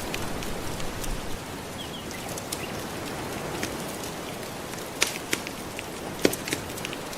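Soft ocean waves washing steadily under the crackle of a wood fire, with scattered sharp pops, the loudest about five and six seconds in.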